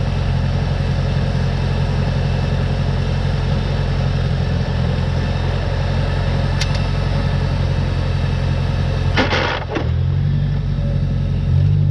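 Tractor engine running steadily, with a single sharp click partway through. Just after nine seconds there is a short noisy rasp, and then the engine note changes.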